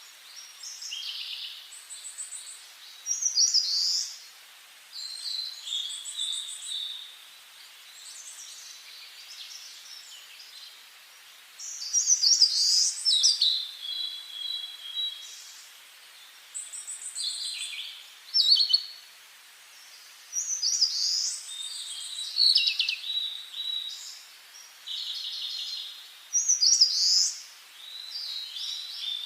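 Several songbirds singing, one short high phrase after another with brief gaps, some phrases fast trills of repeated notes.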